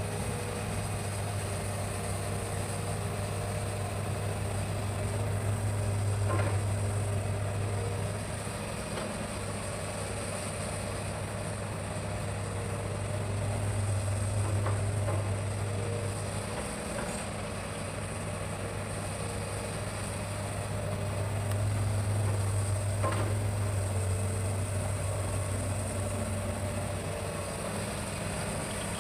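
Hitachi hydraulic excavator's diesel engine running steadily, rising in level a few times as the machine works, with a few faint knocks.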